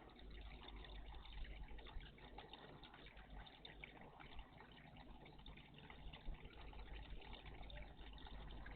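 Faint, steady trickling of water in a bird bath, with a fine crackle of small drips and splashes.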